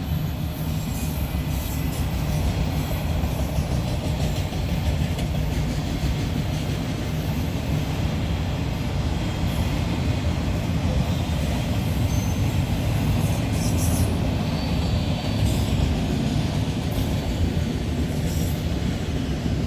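Long freight train rolling slowly past: a steady rumble of cars and wheels on the rails, with faint wheel squeals here and there. The train is slowing down.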